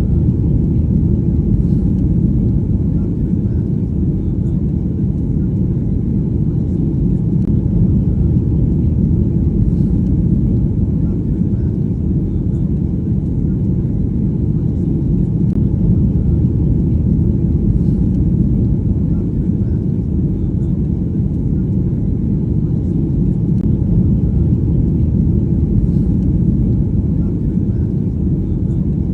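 Passenger plane cabin in flight: a steady low rumble that holds constant throughout.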